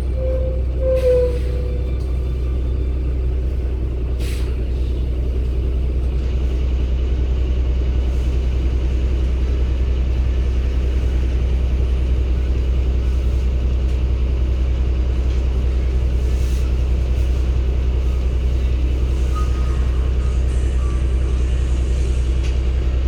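Cummins ISB six-cylinder Euro 6 diesel of a 2016 Daewoo NEW BS090 city bus running with a steady low drone, heard inside the cabin. A short electronic beep sounds about a second in, and there is a click a few seconds later.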